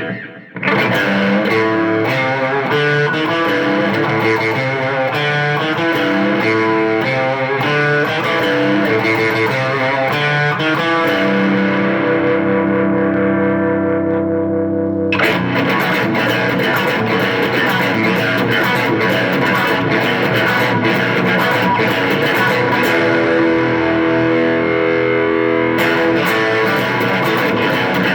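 Electric guitar played through a Roland Micro Cube battery amp on a distorted setting: a busy riff of picked notes, a few notes held ringing for several seconds about eleven seconds in, then dense playing again.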